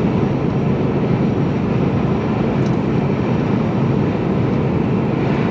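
Steady drone of engine and road noise inside the cab of a Mercedes-Benz Actros lorry on the move.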